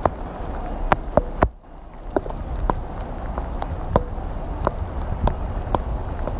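Rain, with scattered sharp taps of drops and a low wind rumble on the microphone. The sound dips briefly about a second and a half in.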